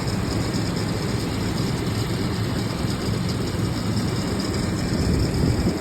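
The heavy engine of a beach-cleaning vacuum machine running steadily as it sucks up washed-up seaweed and debris.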